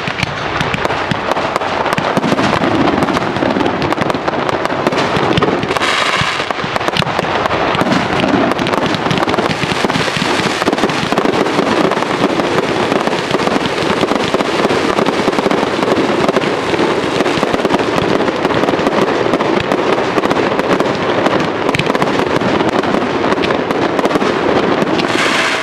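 Fireworks display: a dense, continuous run of crackling and popping from many shells bursting at once.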